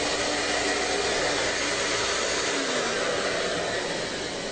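Steady whooshing noise of an electric household appliance's motor and airflow running at full power, cutting off abruptly at the very end.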